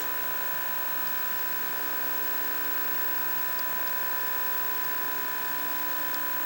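Steady electrical buzz from a 1963 Philco Courier portable TV set: a constant, unchanging hum made of several fixed tones, highest around the upper middle of the range.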